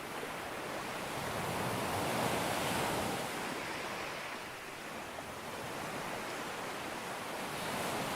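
Sea waves breaking on a beach, a steady rush of surf that swells to a peak about two to three seconds in and builds again near the end.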